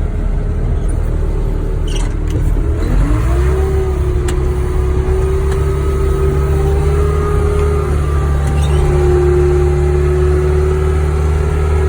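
Wheel loader's diesel engine revving up about three seconds in and holding high revs as the loader pushes up a pile of wood chips, with a steady whine over the engine.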